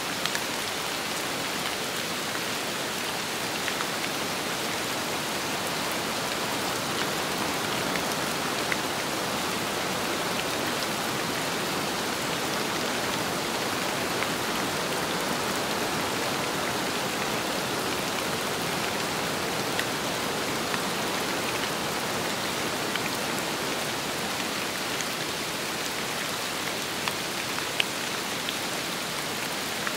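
Steady rain falling on a surface, an even hiss with a few sharper drop ticks here and there.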